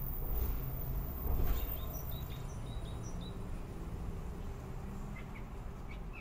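Small wild birds giving short, high chirps in scattered runs over a steady low background rumble, with two brief louder low swells about half a second and a second and a half in.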